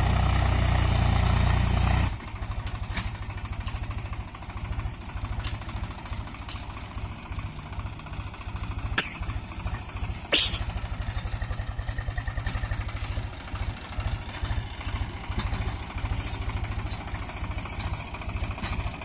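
Swaraj 735FE tractor's three-cylinder diesel engine running steadily. About two seconds in it drops to a quieter, evenly pulsing chug. Two sharp knocks about a second and a half apart near the middle.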